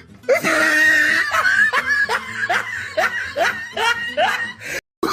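Laughter in a quick run of short rising 'ha' bursts, about three a second, from the looped 'oh no' meme sound clip. It cuts out briefly near the end as the clip loops.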